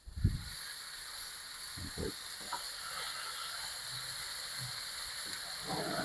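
Burgers frying in beef tallow on a hot cast iron sear plate, a steady sizzle, with a sharp knock just as it starts and a couple of dull knocks about two seconds in.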